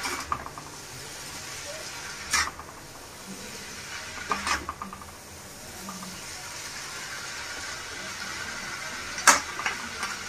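Hakka noodles sizzling in a hot iron kadai as they are stir-fried, tossed and stirred, with three sharp knocks of the utensil against the pan spread through.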